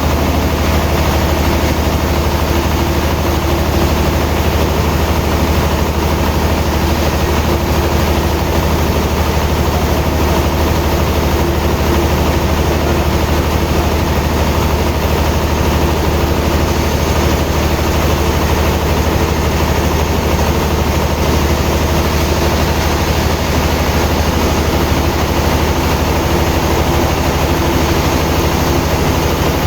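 Sawmill machinery running steadily at a constant speed, a loud, even, deep hum that does not change.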